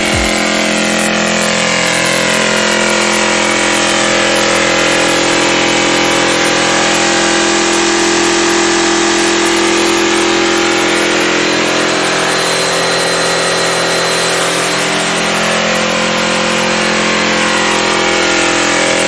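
An engine running steadily at an even speed, its pitch drifting only slightly.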